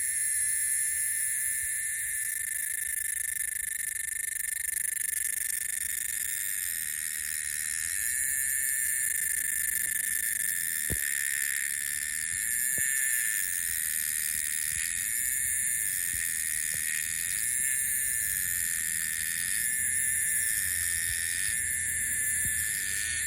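Steady chorus of insects trilling, several high continuous tones layered at different pitches, with a faint tick about eleven seconds in.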